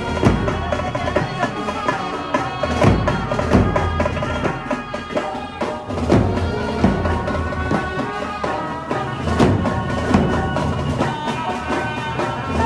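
Loud traditional-style music played through a procession sound system: a held, sustained melody over drum beats, with heavier drum strikes every few seconds.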